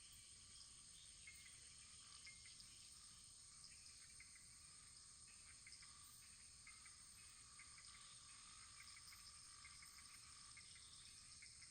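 Wood fire burning quietly: a soft steady hiss with many small scattered crackles and ticks.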